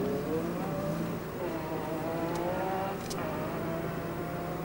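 Vauxhall Nova 1.3SR rally car's four-cylinder engine running at low revs, heard from inside the cabin, its revs rising and falling as the car creeps forward. Two sharp clicks come a little after halfway.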